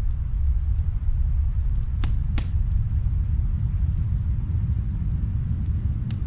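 Wood fire crackling in a fireplace: scattered sharp pops and snaps, with two louder pops close together about two seconds in, over a steady deep rumble.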